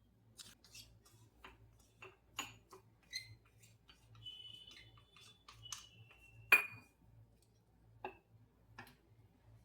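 Scattered light clicks and taps of small objects being handled and set down, with a brief thin ringing tone a little before the middle and one sharper, louder click about two-thirds of the way in.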